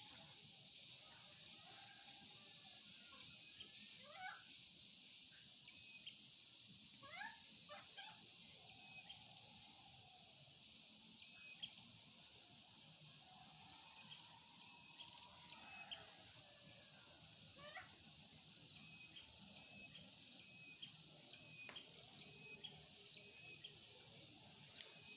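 Faint animal calls: several drawn-out cries that glide up and down, over a steady high hiss with scattered short chirps.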